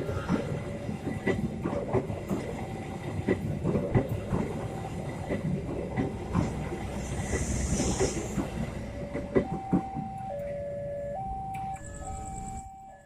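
A train running past over the level crossing, its wheels clattering over the rail joints. The train noise dies away about three-quarters of the way in. Through it, and clearly once it fades, the crossing's electronic warning alarm sounds, stepping back and forth between two pitches.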